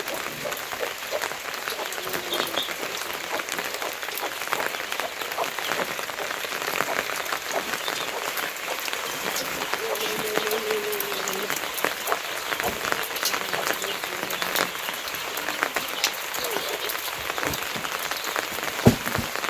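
Heavy rain falling, a dense steady patter of drops on surfaces, with one sharper, louder tap near the end.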